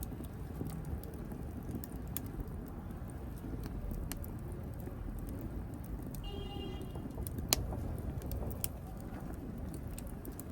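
Wood fire burning in a fireplace: a low steady rumble of flame with irregular crackles and small pops, one sharper pop a little past the middle. Shortly before that pop comes a brief high whistling tone.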